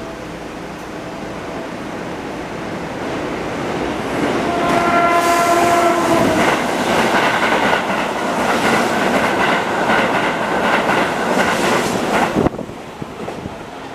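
A train horn sounds for about a second and a half, then an electric commuter train passes close by at speed, a loud rush of wheels clattering over rail joints that cuts off suddenly about twelve seconds in as its last car clears. Underneath, the hum of a stationary train at the platform.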